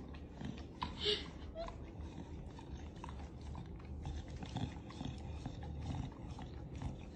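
Faint scattered clicks and small knocks, like things being handled, over a low steady hum.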